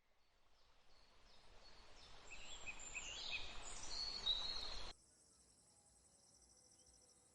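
Birds chirping over a rising rush of noise that cuts off suddenly about five seconds in. After the cut comes a steady, high, pulsing chirring of insects.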